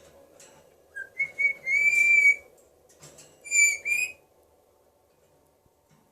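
African grey parrot whistling: a few short notes, then one long held note, then about a second later two short wavering notes.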